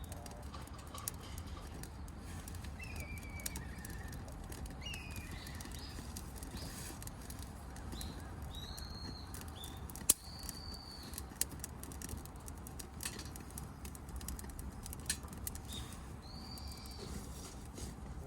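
Wild birds calling outdoors: short, clear whistled notes now and then, over a steady low rumble. Scattered sharp clicks run throughout, with one loud snap about ten seconds in.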